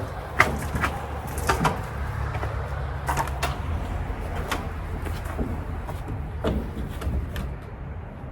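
Irregular knocks, taps and clatters from handling and fastening siding panels, over a steady low hum.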